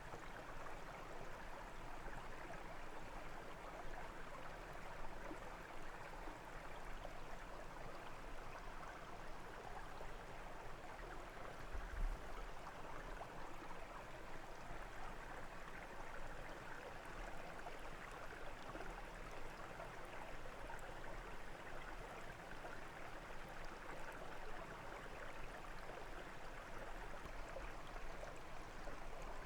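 Creek water flowing over stones, a steady rushing babble. There is a brief low thump about twelve seconds in.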